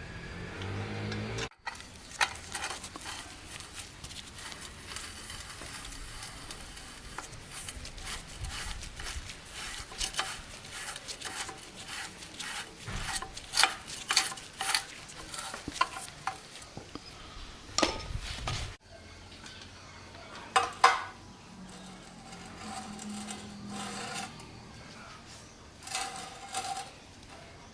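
Hand work on metal engine parts: rubbing and scraping with irregular clinks and knocks of metal on metal, loudest in a cluster of knocks in the middle.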